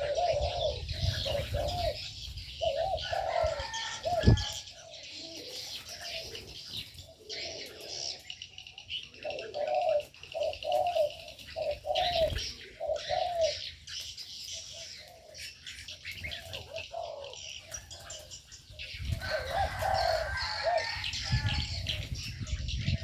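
Doves cooing in repeated short phrases of rounded notes, with smaller birds chirping higher up. A single sharp knock about four seconds in.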